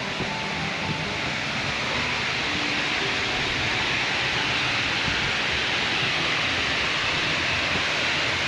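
Waterfall rushing: a steady hiss of falling water that grows slightly louder about two seconds in.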